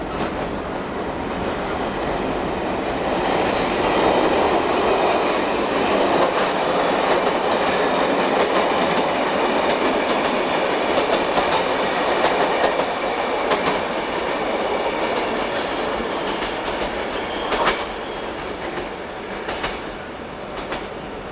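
A train rolling past, its wheels clattering over rail joints and points, growing louder over the first few seconds, holding, then easing off, with a sharp clack near the end.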